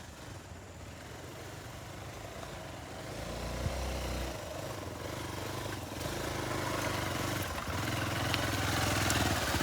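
Motorcycle engine running at low revs, growing gradually louder, its pitch stepping a few times.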